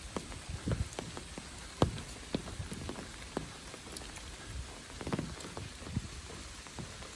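Steady rain falling, with heavier drops landing close by at irregular moments, the sharpest a little under two seconds in.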